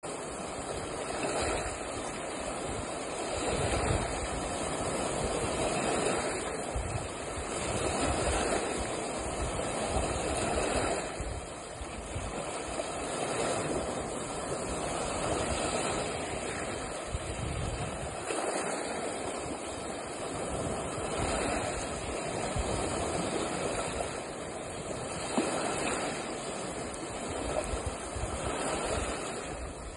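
Small lake waves washing against the shore, swelling and easing every two seconds or so, with wind buffeting the microphone.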